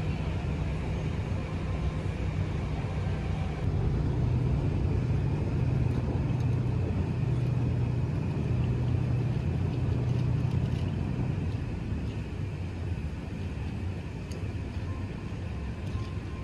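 Diesel tourist train running, heard inside the carriage: a steady engine drone over a low rumble, a little louder through the middle.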